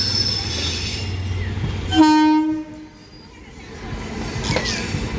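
Passenger train running with a low rumble, then a single short, loud horn blast about two seconds in. Near the end the wheels start clattering over the rail joints, growing louder.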